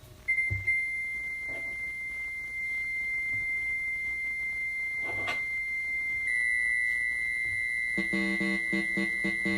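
Electronic keyboard holding one high, pure beep-like tone, which gets a little louder about six seconds in; short keyboard notes come in near the end.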